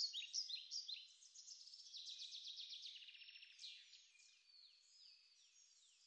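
Small songbirds singing faintly: quick high chirps and short falling notes, with a fast run of repeated notes about two seconds in, thinning out in the second half.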